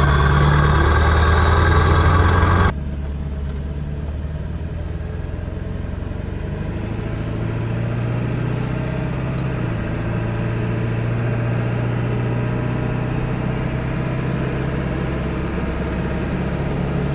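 Ford Super Duty diesel engine pulling the truck down the road with a steady low hum. The sound drops suddenly in loudness about three seconds in. About ten seconds in, the engine note steps down as the transmission shifts gear.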